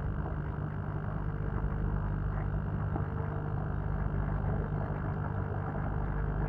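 LK60 air compressor humming steadily while its air drives a pond airlift, with water gurgling and bubbling in the lift tube.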